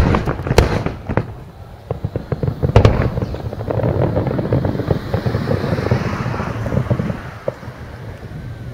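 Large aerial firework shells bursting: several sharp bangs near the start and another about three seconds in, then a dense crackling rumble of many bursts that dies down after about seven seconds.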